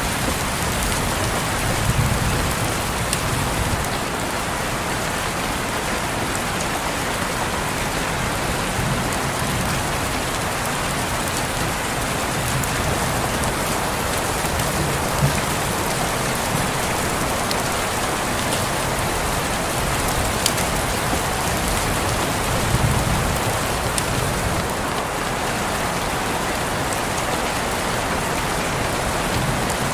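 Steady rain falling on a window, an even hiss with scattered individual drops tapping; a few louder drop hits stand out, one about fifteen seconds in.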